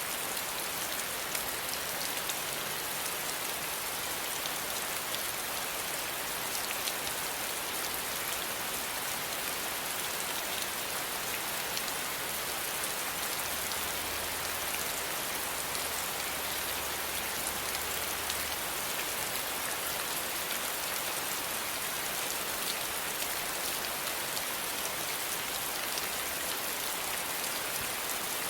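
Steady rain falling, a dense even hiss of drops spattering on a surface, with no thunder.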